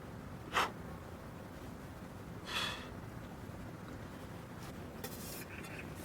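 Faint steady background noise with small handling sounds: a sharp click about half a second in, a brief clink-like scrape about two and a half seconds in, and light scraping near the end.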